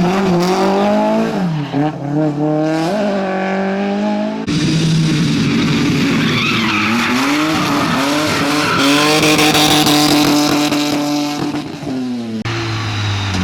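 Competition car engines run hard, revving up through the gears and dropping back on lift-off, in three successive passes with abrupt switches from one car to the next. Tyre noise sits under the engines.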